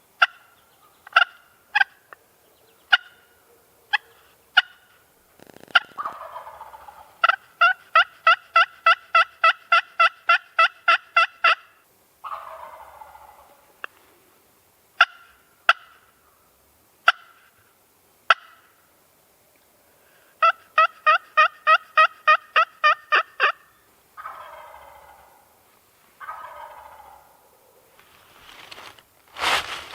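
Wild turkey calling: single sharp clucks, then a fast run of about twenty yelps, answered by a tom turkey's rolling gobble. The pattern comes round again, with a shorter run of yelps followed by two gobbles.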